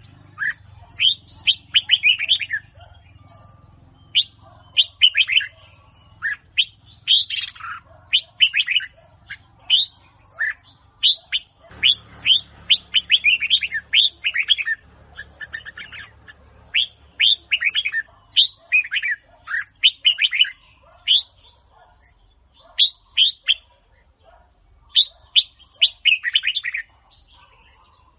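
Red-whiskered bulbul singing: quick phrases of short, falling whistled notes, repeated in bursts with brief pauses between them.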